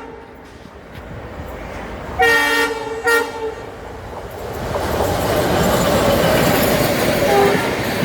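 WAP7 electric locomotive sounding its horn in two short blasts about two seconds in, then the train's running noise building steadily as it approaches.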